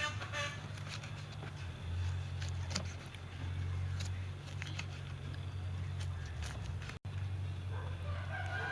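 A rooster crowing over a steady low hum, with scattered faint clicks.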